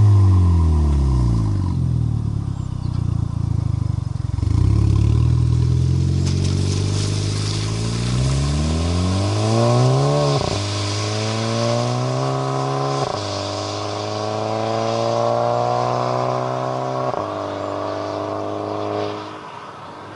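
Volkswagen Golf Mk5 GT 1.4 TSI four-cylinder engine heard through a resonator-delete exhaust with a GTI rear muffler. The revs sag, climb steadily for several seconds, drop abruptly, then hold and step down twice more before tailing off near the end.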